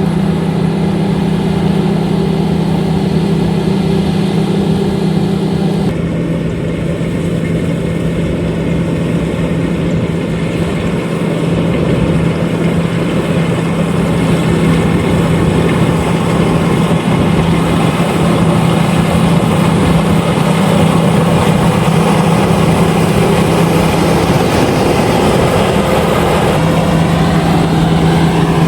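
LOVOL RG130EVO combine harvester running steadily under load while harvesting rice, its engine tone over the clatter of machinery. The engine note drops slightly about six seconds in and wavers briefly near the end.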